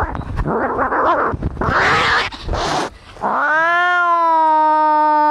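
Cats fighting. First come harsh, noisy cries. About three seconds in, one long drawn-out yowl rises and then holds steady.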